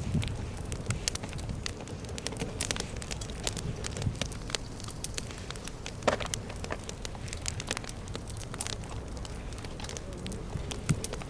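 Wood campfire crackling, with scattered sharp pops and one louder pop about six seconds in, over a low steady rumble.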